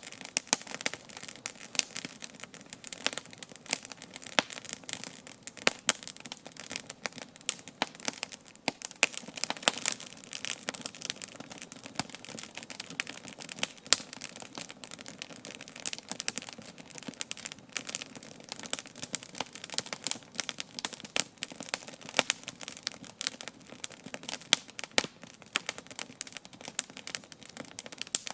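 Wood campfire crackling: dense, irregular snaps and pops from the burning logs, some much sharper than the rest.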